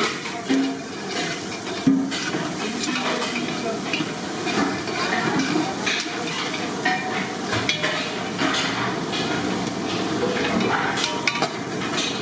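Sliced onions and chillies sizzling in oil in a large aluminium pot while a long metal spatula stirs them. The spatula scrapes and clicks against the pot, with a sharper knock about two seconds in.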